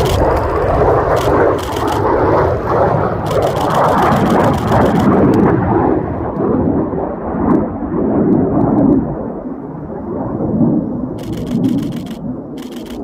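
Jet aircraft engines roaring loudly with a deep rumble; about halfway through, the high hiss fades away and only the rumble carries on.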